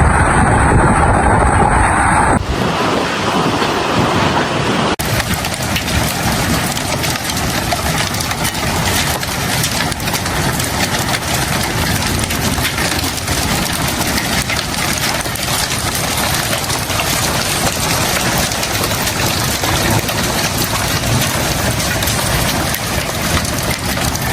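Storm noise: a steady roar of wind and rain. The sound changes abruptly twice in the first few seconds, then runs on as an even rushing hiss.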